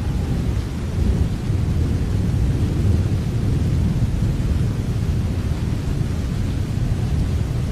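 Rain falling steadily, with a deep, even rumble under it that swells slightly about a second in.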